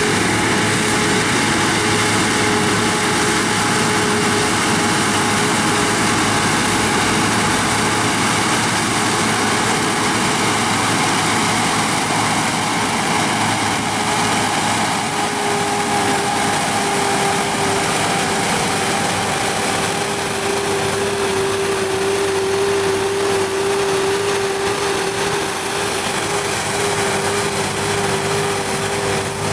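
Pulling tractor's engine running hard and steadily at high power, with a constant high whine over the engine noise; a steady mid-pitched tone in it grows louder about halfway through.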